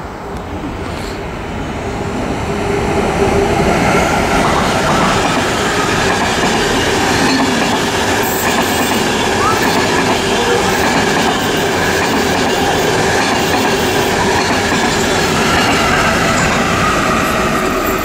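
Electric intercity passenger train, locomotive-hauled coaches, passing at speed on the adjacent track: steady wheel-on-rail running noise that grows louder over the first three seconds as the train arrives, then holds.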